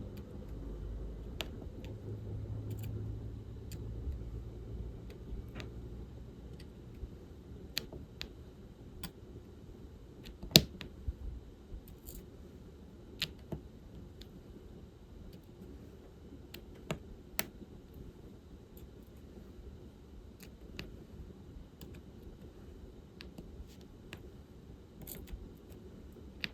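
Irregular light clicks and taps of diamond painting work: a drill pen picking up and pressing small resin drills onto the canvas, with tools touching the bead tray. One sharper knock comes about ten seconds in, and a low hum sits under the first few seconds.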